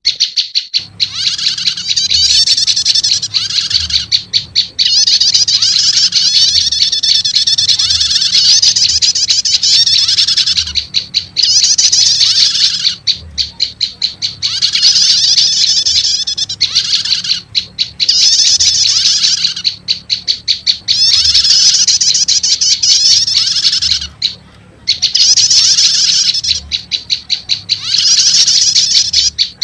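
Looped lure recording of prenjak lumut (a small Indonesian warbler) calls mixed with prenjak calls: loud, rapid high trilling chatter in phrases of a few seconds, broken by short pauses.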